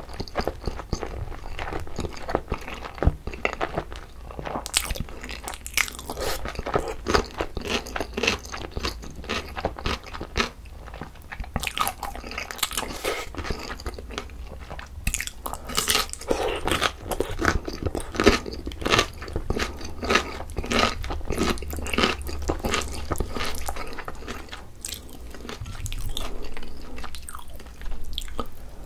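Close-miked chewing of mouthfuls of sauce-coated rice and kimchi, a continuous run of wet chews with frequent crunches.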